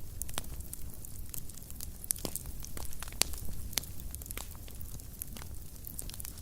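Wood fire crackling in a fireplace: irregular sharp pops and snaps, several a second, over a low steady rumble of flames.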